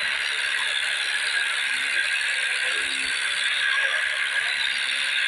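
Swaraj tractor running along a highway at speed: a steady mechanical rattle over a constant rushing road noise.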